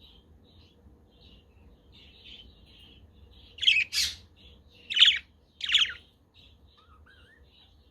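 Pet budgerigars chattering softly and continuously, broken in the middle by four loud, harsh squawks in quick succession, then a short rising whistle.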